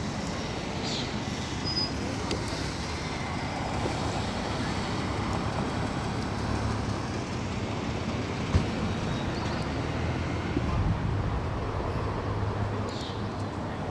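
A car engine idling steadily in an open parking lot, with a low, even hum that is strongest near the start and the end. A single sharp click comes about eight and a half seconds in.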